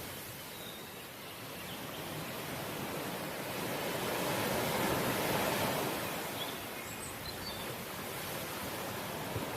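Sea waves washing on the shore: a steady rush of surf that swells to a peak about halfway through, then eases.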